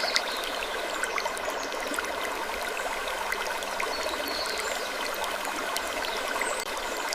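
Steady trickling of running water, dotted with many small clicks and drips.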